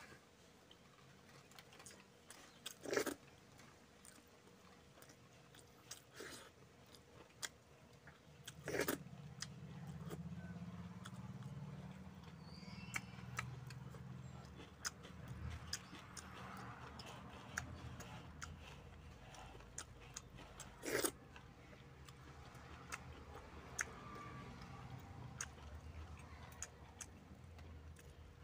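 Close-up eating sounds of a man eating rice and chicken curry with his fingers: chewing and wet mouth noises with small clicks, and three louder sharp clicks. A low hum comes in about nine seconds in.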